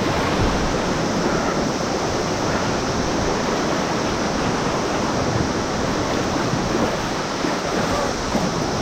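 Rushing whitewater of a river rapid, a steady loud wash of churning water with no breaks.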